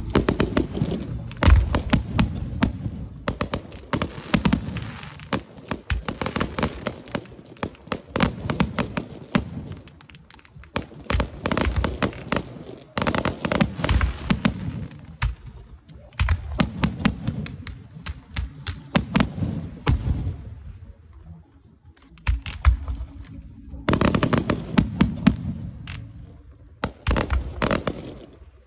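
Aerial fireworks shells bursting in rapid volleys: deep booms under dense sharp cracks and crackling, with short lulls between barrages.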